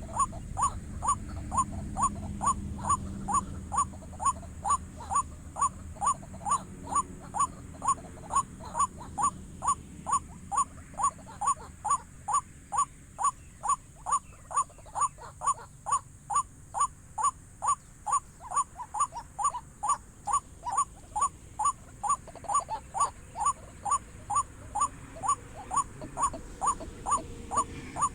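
White-breasted waterhen (wak-wak) calling: one short croaking note repeated steadily, about twice a second, without a break. A faint high-pitched pulsing tone runs behind it.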